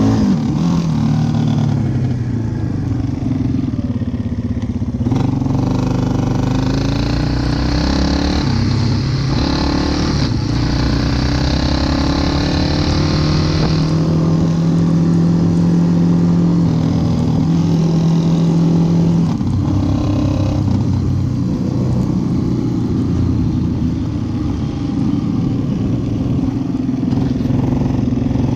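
Yamaha Wolverine ATV engine running under way, its pitch rising and falling with the throttle and held steady for a few seconds in the middle.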